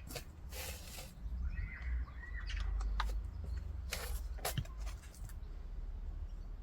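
Scattered light clicks and knocks with a brief rustle, and a short wavering chirp in the middle.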